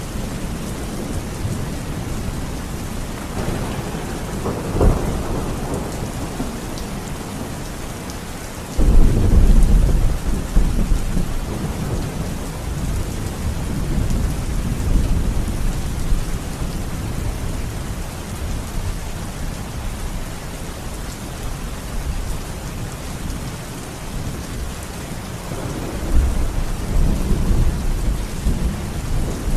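Steady rain falling, with rolling thunder: a sharp crack about five seconds in, a sudden deep rumble about nine seconds in that fades slowly, and another low rumble near the end.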